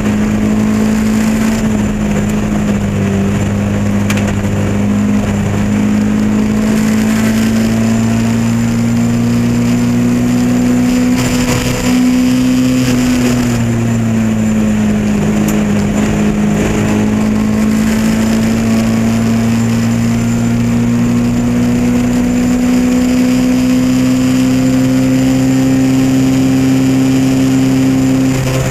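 Lotus Elan race car's engine running hard at high revs, its pitch climbing slowly as speed builds. About twelve seconds in the note drops briefly, as at a gear change or a lift, then climbs again, and it drops once more right at the end.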